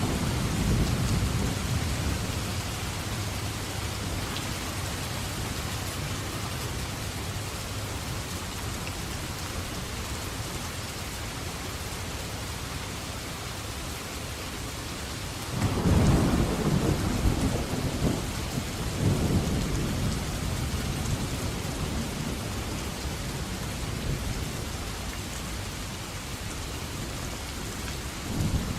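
Steady heavy rain with rolling thunder: a rumble near the start, and a louder peal about halfway through that rumbles on in several swells for a few seconds.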